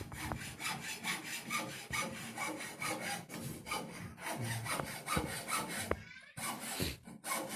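Rapid, rhythmic rasping scrape, about five strokes a second, with a couple of short breaks near the end.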